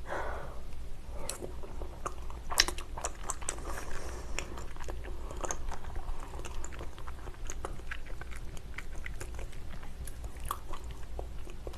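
Close-miked chewing of raw salmon sashimi: wet mouth sounds and many small sharp clicks, with one louder click about two and a half seconds in.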